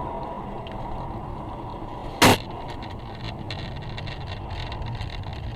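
Steady car driving noise with one short, very loud bang a little over two seconds in, followed by a few faint clicks.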